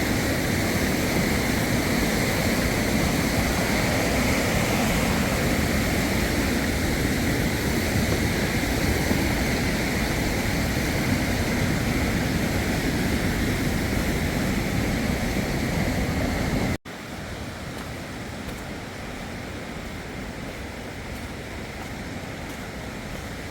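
Steady rushing water. About 17 seconds in it cuts off abruptly to a quieter rush of water.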